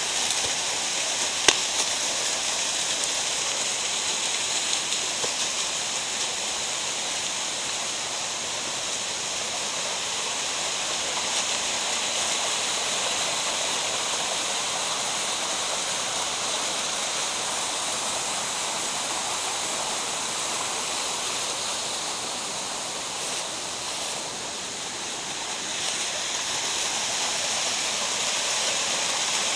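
Steady rush of water from a mountain gorge stream, with one sharp click about a second and a half in.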